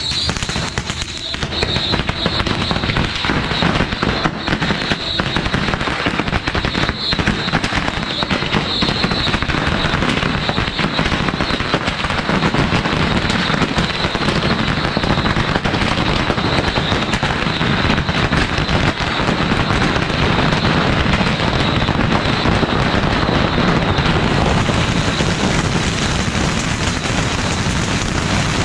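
Massed bottle rockets going off from a beehive rocket rack, hundreds of rapid pops and cracks merging into one continuous crackle. It gets hissier near the end.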